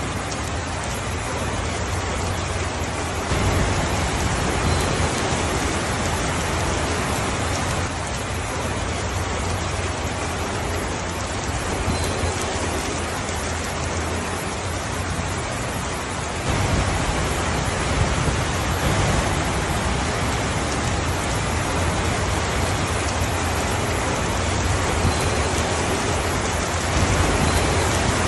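Steady rainfall, a dense even hiss of rain on surfaces with a low rumble beneath. It gets heavier about three seconds in, eases around eight seconds, and grows heavier again around sixteen seconds.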